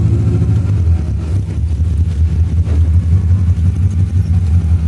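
Lada 2107's swapped-in 2.0-litre Fiat engine running steadily at low revs, a deep even drone.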